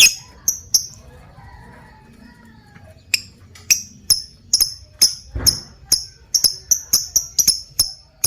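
Lovebird calling in short, sharp, high-pitched chirps: a few at the start, then from about three seconds in a quick, even run of roughly four a second, the long 'ngekek' chatter. A low thump sounds about five seconds in.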